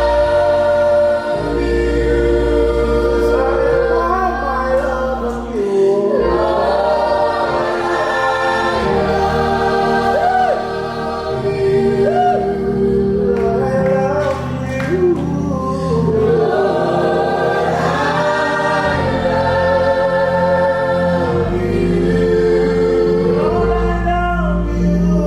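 Worship music: a group of voices singing sustained chords over steady held bass notes.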